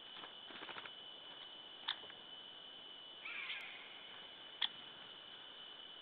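Faint outdoor webcam audio with a steady high whine underneath, sharp ticks about two and four and a half seconds in, and a short scratchy bird call a little after three seconds, from the ravens and Eurasian jay feeding at the spot.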